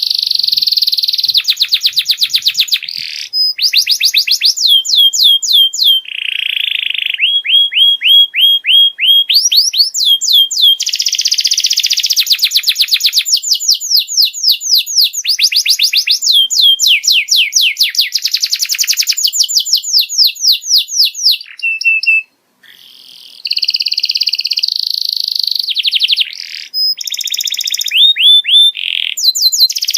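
Domestic canary singing a long, fast song of rapid trills and rolls of repeated notes, switching to a new phrase every second or two, with one brief pause about two-thirds of the way through.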